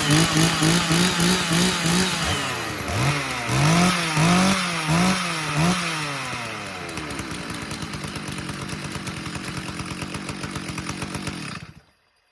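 Large Stihl two-stroke chainsaw, just cold-started, blipped in quick repeated throttle revs, then a few bigger revs, before settling to a steady idle about seven seconds in. It is shut off abruptly near the end.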